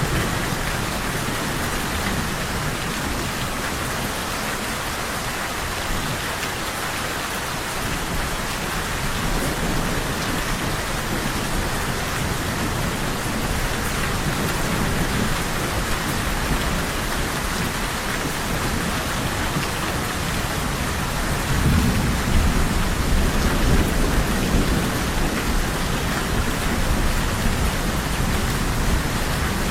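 Steady heavy rain pouring down, with low rumbles of distant thunder; the loudest rumble comes about three quarters of the way through.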